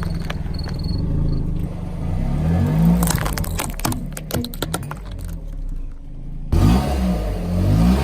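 Car engine revving as the car drives over and crushes objects, with a run of sharp cracks and crunches from about three to five seconds in. The sound cuts off abruptly about six and a half seconds in, and the engine revving comes straight back.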